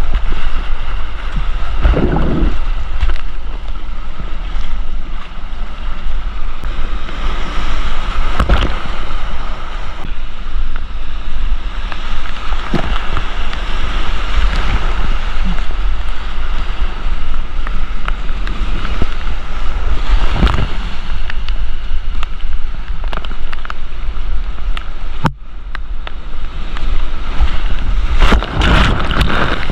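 Creek whitewater rushing steadily around a kayak, with wind buffeting the microphone and a few sudden splashing hits every several seconds.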